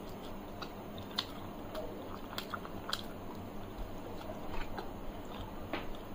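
A person chewing a mouthful of paneer curry, close to the microphone, with a few sharp wet clicks scattered through. Fingers mix rice and curry on a metal plate.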